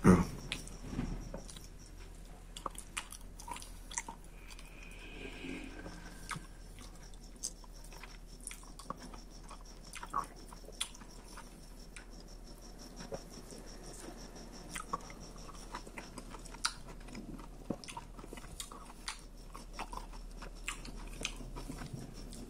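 A man chewing a mouthful of banana: quiet mouth sounds with many scattered small clicks.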